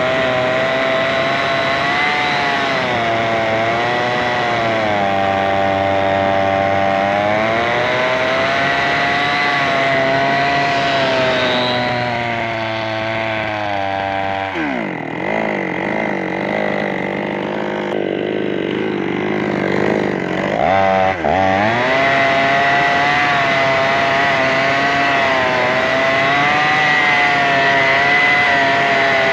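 Chainsaw engine running at high speed with a slightly wavering pitch. About halfway through the pitch drops sharply and stays low for several seconds, then rises back to full speed.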